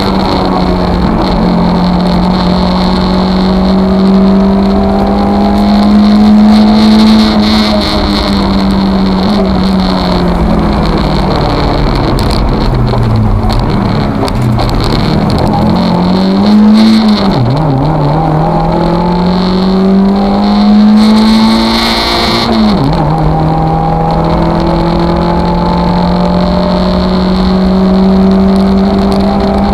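Lada VFTS rally car's four-cylinder engine at high revs, heard from inside the cabin. It holds a steady high pitch, falls away about twelve seconds in, revs up and down through a slow section, drops sharply in revs about 23 seconds in, and climbs back to a steady high pitch.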